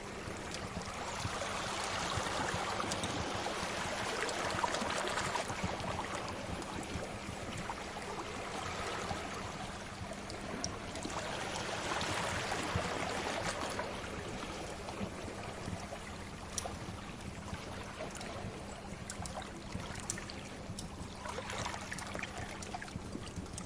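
Sea waves washing in and receding in slow swells, about one every nine seconds, with sparse small crackles and pops from a wood fire.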